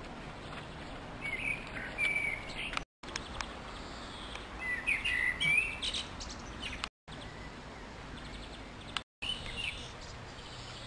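Small birds chirping in short, quick calls, in three bursts, over a steady background of outdoor noise.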